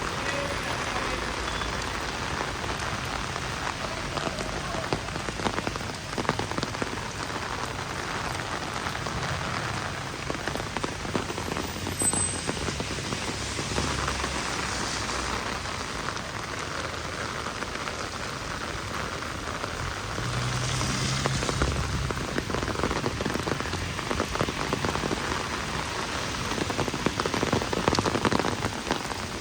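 Heavy rain falling steadily, a dense hiss of drops hitting the ground. A low hum comes and goes twice, about ten and twenty seconds in.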